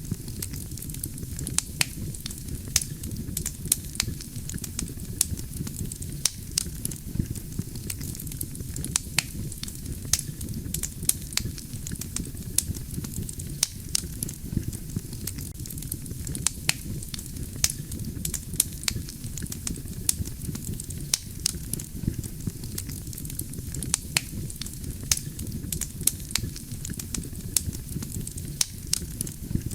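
Wood fire burning steadily: a low rumble of flames with frequent sharp crackles and pops of burning logs, several a second.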